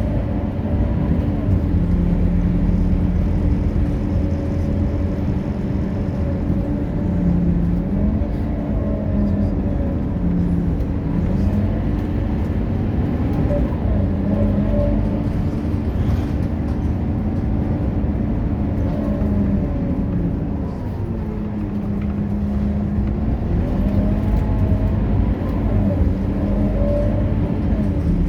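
Scania K230UB city bus's diesel engine running under way over a steady low rumble. Its pitch rises and drops back several times, as with automatic gear changes while accelerating and slowing.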